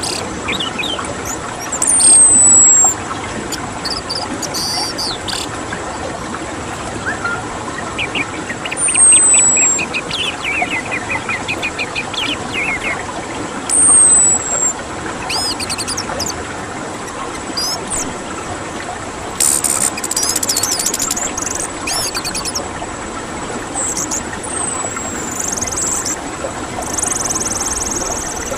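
Songbirds singing: loud, high whistles that slide downward come a few times several seconds apart. Between them are quick trills and short chirps, over a steady background hiss with a faint high steady tone.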